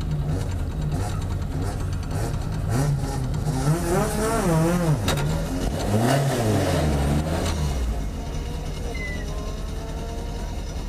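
Rally car's engine heard from inside the cabin, idling with quick throttle blips that rev it up and down twice in the middle, then settling back to a steady idle.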